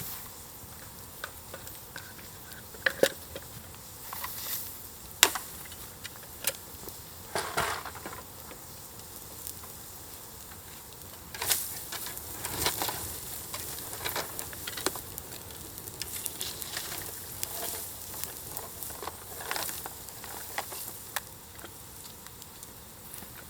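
Wood fire built up on embers, crackling with a faint steady hiss and irregular sharp pops.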